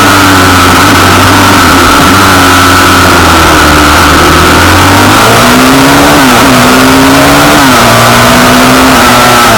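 Pit bike engine running hard and continuously, its pitch climbing and dropping several times with throttle and gear changes: one rise about five seconds in, a sharp drop and a second climb, then a fall near the eight-second mark. A loud steady rush of noise sits under it.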